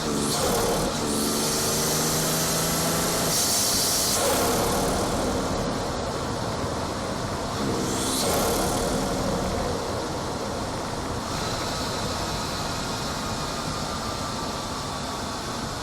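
BMW 440i's turbocharged B58 inline-six heard from a microphone on its front mount intake while driving: engine note under load with loud whooshing intake air, twice in the first nine seconds or so, then steady cruising intake and road noise.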